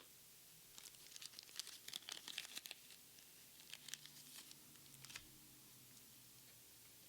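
Foil wrapper of a Japanese Pokémon card booster pack being torn open and crinkled, a dense crackle for about two seconds, then a few more crinkles a second or so later.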